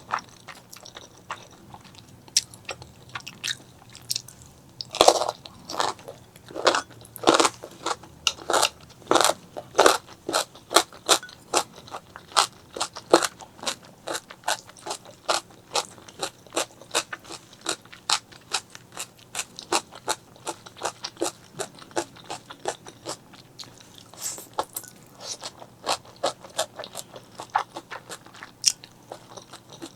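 A person chewing food with many sharp, crisp crunching clicks, several a second, loudest about five to thirteen seconds in and again near the end.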